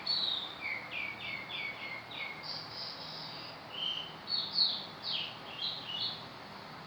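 A bird chirping: a quick run of four or five short, clear notes, then a more varied string of chirps, over a faint steady background hiss.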